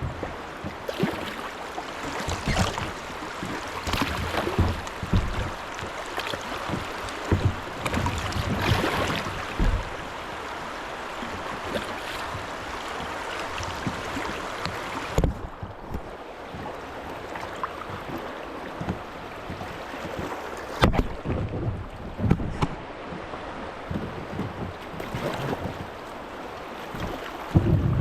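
A kayak being paddled down a shallow, rocky creek: irregular paddle splashes over running water. A few sharp knocks come in the second half.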